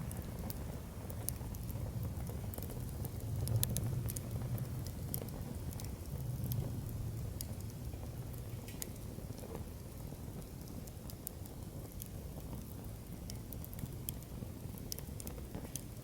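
Wood campfire burning in a fire pit, with scattered sharp crackles and pops over a steady low rumble of flames.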